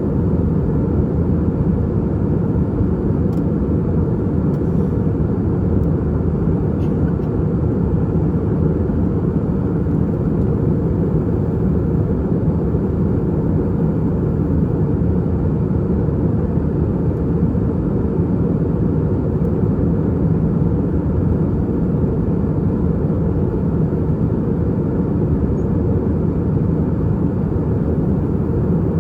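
Steady cabin noise aboard an Airbus A320-232 in flight: the low drone of its IAE V2500 turbofan engines and the rush of air over the fuselage, heard from inside the cabin. A couple of faint ticks come a few seconds in.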